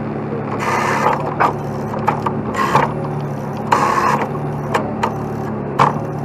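Heavy tow truck's diesel engine running steadily, with four short bursts of metallic rattling and clicking over it.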